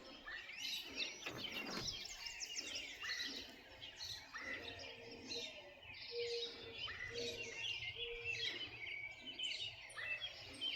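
Several birds chirping and singing, with a row of short, steady low notes repeating in the middle, over faint outdoor background noise.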